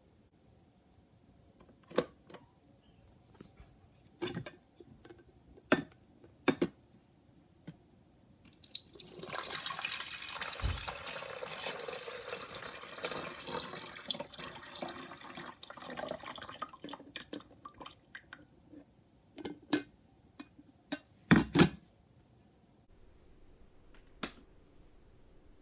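Water running or pouring for about eight seconds, starting about nine seconds in. Sharp clicks and knocks of handling come before and after it, loudest as a pair of knocks near the end.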